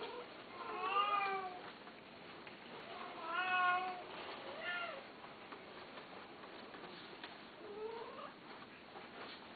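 Domestic cat meowing: four separate meows, the second the longest and loudest, the last one fainter.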